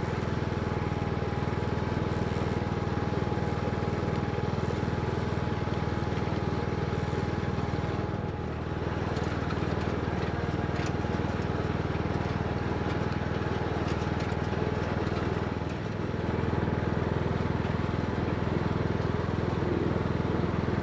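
A vehicle engine running steadily at an even speed while driving, with a thin steady whine above it. It eases off briefly twice, about eight and sixteen seconds in.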